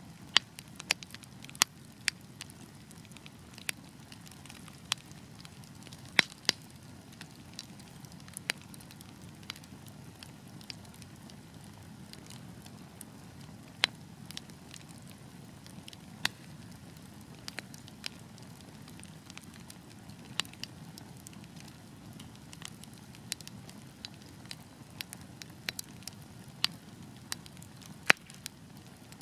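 Wood fire burning in a fireplace: a steady low rumble of flames with sharp, irregular crackles and pops, a few of them much louder than the rest.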